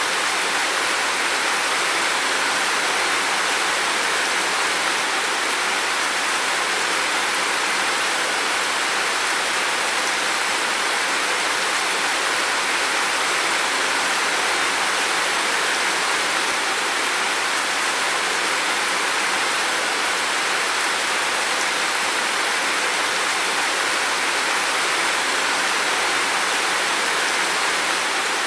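Heavy rain falling steadily, an even unbroken hiss with no separate drops or thunder standing out.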